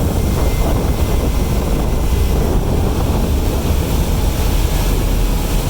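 Steady, loud low rumble of a ferry's engines running, with wind buffeting the microphone.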